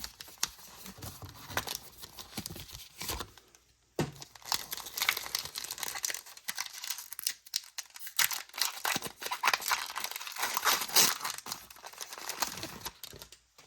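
Foil Pokémon booster pack wrapper being torn open and crinkled, a run of crackly rustling with a brief pause about four seconds in.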